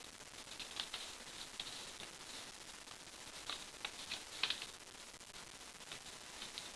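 Faint crinkling and rustling of printer paper being folded and creased by hand, in short irregular crackles that cluster about halfway through.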